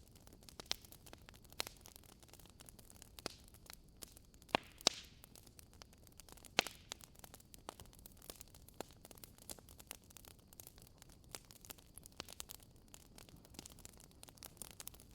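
Campfire wood crackling: irregular sharp pops and snaps over a faint steady hiss. The biggest pops come about four and a half seconds in, again just after, and at about six and a half seconds.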